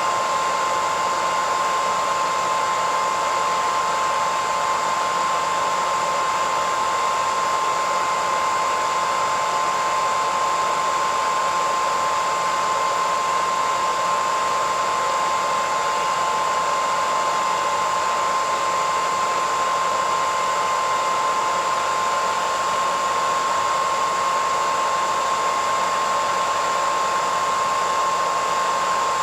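Hair dryer running steadily: an even rush of blown air with a steady whining tone from the motor.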